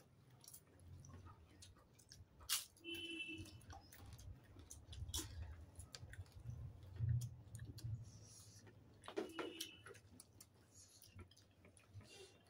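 Quiet eating sounds: chewing and mouth noises, with scattered small clicks and taps of hands and food on plates as chicken wings and rice are eaten by hand.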